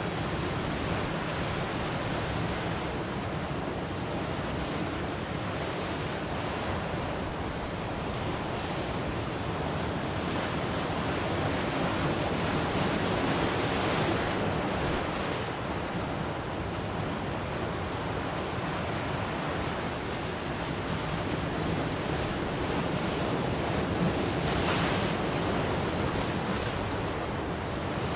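Ocean waves breaking and washing in, a steady surf hiss that swells gently a couple of times, with a brief brighter hiss about 25 seconds in.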